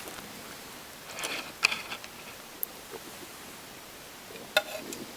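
A few light clicks and taps over a faint steady hiss: a cluster of them about a second in and one sharper tap near the end.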